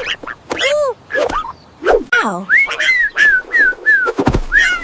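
Whistle sound effects: a swooping tone, then a whistle gliding down, followed by a run of about six short falling chirps, roughly three a second. A low thud comes near the end.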